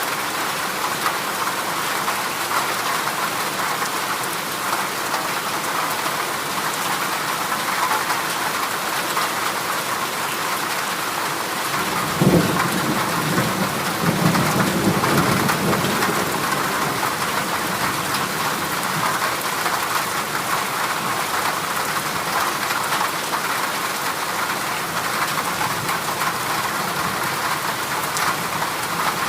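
Heavy rain drumming steadily on a corrugated zinc sheet roof. About twelve seconds in, a low rumble of thunder rises suddenly and fades over a few seconds.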